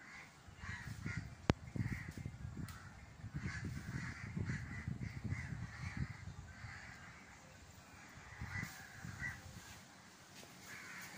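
Birds cawing over and over in short calls, with a low rumbling noise underneath and one sharp click about a second and a half in.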